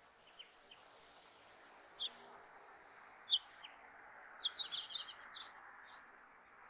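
Birds chirping: scattered short, high chirps, then a quick run of several chirps about four and a half seconds in.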